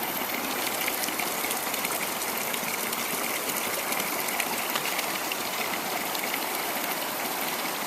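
Steady rush of running, splashing water, most likely mountain spring water pouring out of a bamboo trough.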